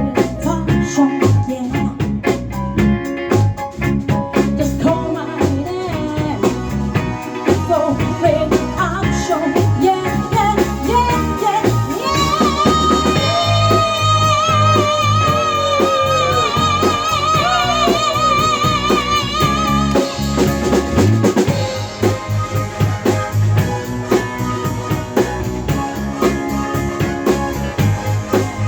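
Live band playing with drum kit and guitar; about twelve seconds in, a lead line holds one long wavering note for some eight seconds.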